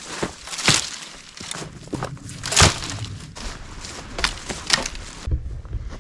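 Dry sticks and brush crunching and snapping while firewood is gathered, with several sharp cracks, the loudest about a second and two and a half seconds in.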